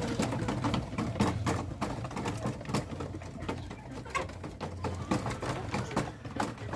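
A poultry flock calling softly, with many short sharp clicks and taps throughout.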